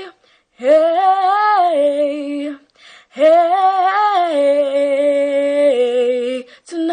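A teenage girl singing unaccompanied: two long, held phrases, the second longer. Each rises and then steps down in pitch.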